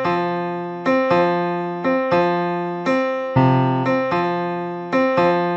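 Song intro on an electric piano or keyboard: the same chord is struck over and over, about once every three-quarters of a second, each ringing out and fading before the next, with no drums or vocals.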